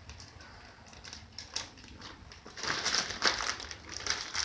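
Hands handling raw cat food: irregular crinkling and soft clicks, busiest a little past halfway.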